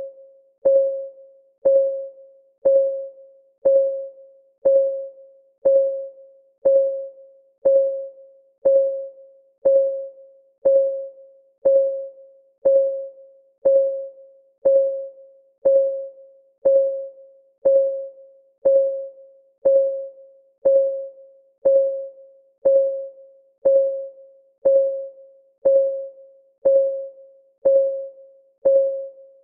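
Clock ticking sound of a countdown timer: one tick each second, evenly paced, each with a short pitched ring that fades quickly.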